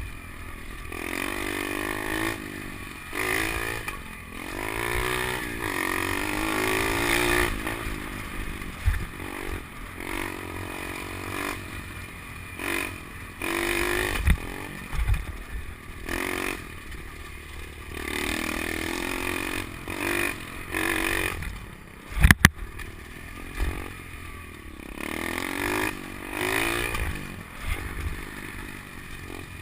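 SSR 125 pit bike's single-cylinder four-stroke engine, fitted with an FMF Powercore 4 exhaust, revving up and easing off over and over as it is ridden around a dirt track. The choke is mistakenly left on, so the engine can't be run out to full throttle. A few sharp knocks cut in, the loudest about two-thirds of the way through.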